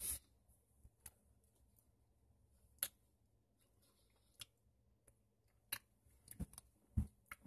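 Quiet chewing of a bite of Snickers bar with dentures, heard as scattered short, sharp clicks, about ten spread irregularly over several seconds.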